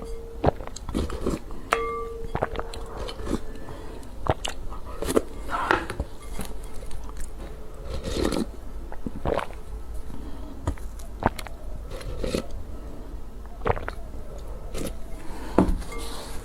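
Close-miked eating sounds: irregular bites, crunches and wet chewing of food, with scattered mouth clicks.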